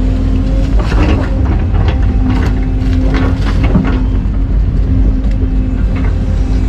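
Excavator's diesel engine running steadily under load, with a series of short clanks and scrapes from the machine at work.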